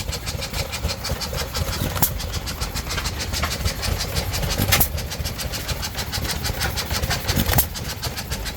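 Several antique stationary gas engines (Ideals, a Famous, a Stover) running together as a fast mechanical clatter, with a sharper pop from a firing stroke about every three seconds.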